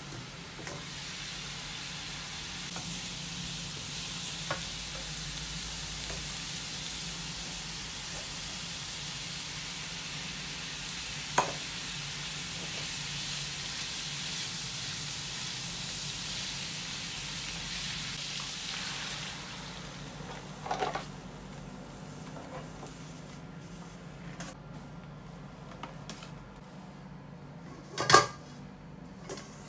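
Pork belly and chopped daikon, carrot and konnyaku sizzling in a frying pan while being stirred with a wooden spatula, with an occasional knock of the spatula against the pan. The sizzle dies down about two-thirds of the way through, and near the end there is one loud clank as liquid is tipped into the pan.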